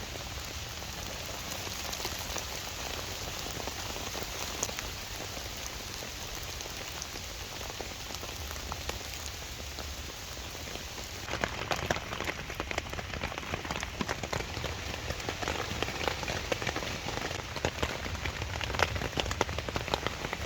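Steady rain falling. About halfway through, a closer, louder pattering of individual drops striking a nearby surface sets in over the rain.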